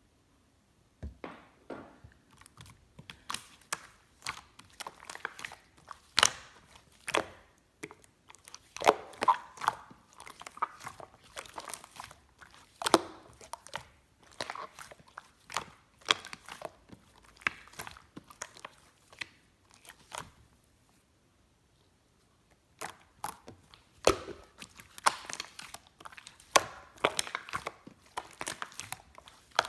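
Slime being handled by hand: a dense, irregular run of sticky clicks, pops and crackles as it is pressed, folded and stretched, with a pause of about two seconds about two-thirds of the way through.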